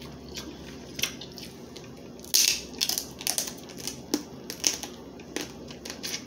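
Crab leg shells being cracked and snapped apart by hand, a run of irregular sharp cracks and crackles, loudest about two and a half seconds in.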